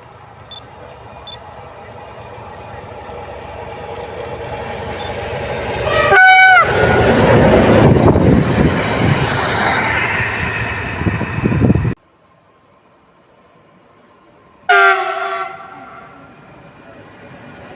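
A train approaching, growing steadily louder, then giving a short horn blast about six seconds in and passing close by with a loud rushing noise. The sound cuts off abruptly; after a quieter moment a second brief horn blast comes near the fifteen-second mark, followed by a lower train rumble.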